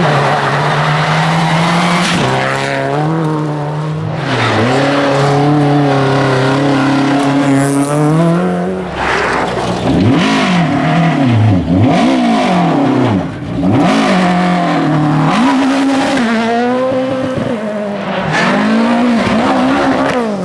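Rally car engines running hard at high revs, the pitch climbing and dropping sharply through gear changes and quick up-and-down swings of the revs.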